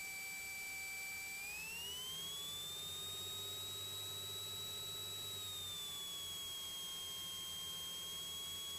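Steady whine in the Cessna 182 Skylane's cockpit audio that follows engine speed: it rises in pitch about a second and a half in as the engine speeds up, holds, then eases down a little around six seconds, with a faint low engine hum beneath it.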